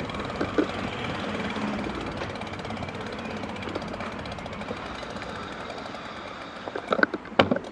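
Engine running steadily with a fast rapid pulsing, and a few loud knocks near the end.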